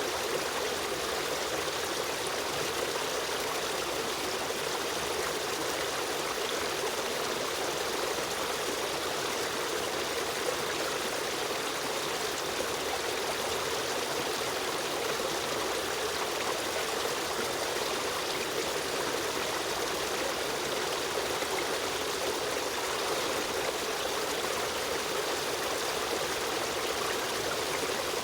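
A small river or stream running steadily over rocks, an even rushing with a trickling, burbling edge.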